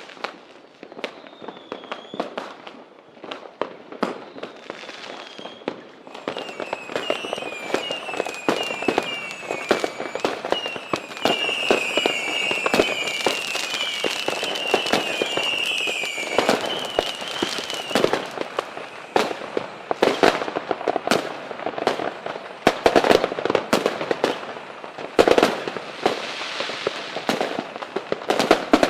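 Fireworks going off: repeated sharp bangs and crackling, growing denser after about six seconds, with a run of short falling whistles between about six and eighteen seconds in.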